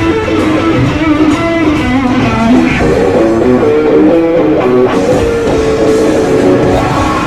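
Live blues-rock band playing, with an electric guitar picking out a moving line of notes over bass and drums.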